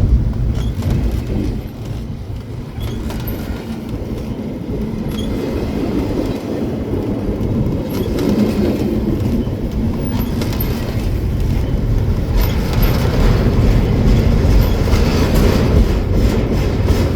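Double-stack container freight train rolling slowly past at close range: a steady heavy rumble of the wagons, with wheels clattering on the rail joints and faint brief squeals, the clatter growing louder near the end.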